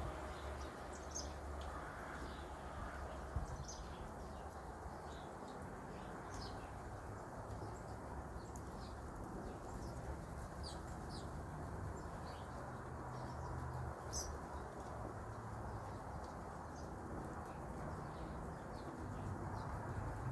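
Wild birds chirping, with short, scattered high chirps throughout over a steady low background noise.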